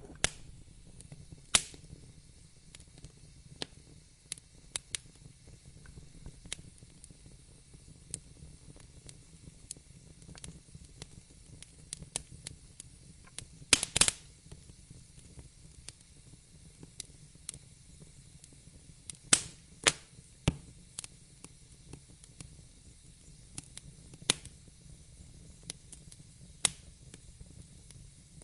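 Wood fire burning in a fireplace: a low steady hiss with irregular crackles and sharp pops, the loudest few about 1.5 s in, around 14 s, around 19 to 20 s and near 24 s.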